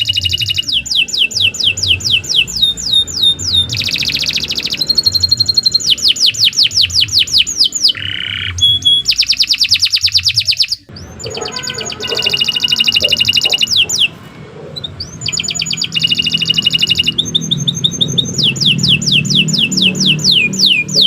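Domestic canary singing a long, continuous song made of rapid trills: each phrase is a fast run of repeated sweeping notes, switching to a new phrase every second or two. The song breaks off briefly about 11 seconds in.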